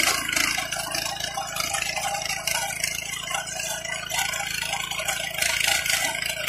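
Varsha power weeder's 5.5 HP, 225 cc petrol engine running steadily with a fast, even clatter.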